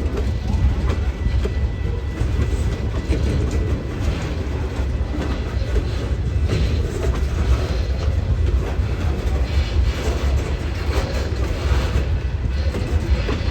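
A train passing on the rails, its wheels clicking and knocking steadily over the track for the whole stretch.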